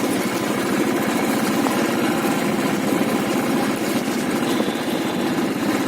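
Motorcycle engine running steadily with a fast, even beat.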